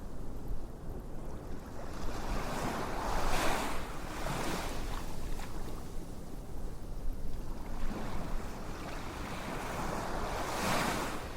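Ocean waves washing in and drawing back, two swells of surf about seven seconds apart over a steady hiss.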